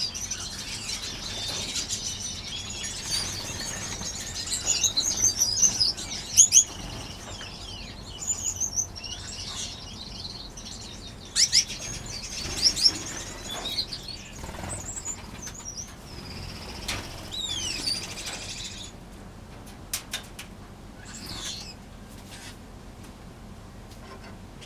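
A flock of small finches chirping and calling over one another in an aviary, with wings fluttering. The chatter thins out after about nineteen seconds.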